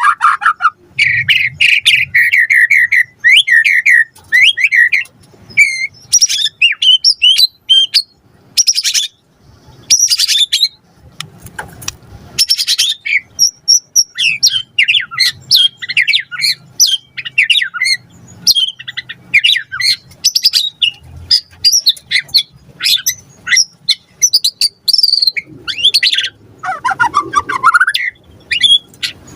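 White-rumped shama (murai batu) in full song: a fast, varied run of whistles, trills and harsh notes with mimicked phrases mixed in. It opens with a quick trilled passage, has a spell of rasping notes in the middle, and ends with a rapid string of short whistles.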